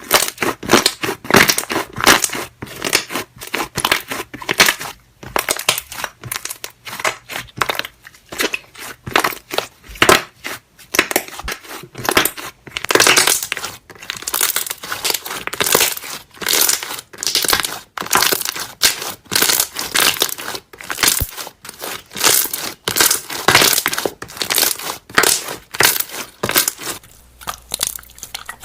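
Slime being pressed and squished by hand, making fast, irregular crackling and popping as trapped air bubbles burst.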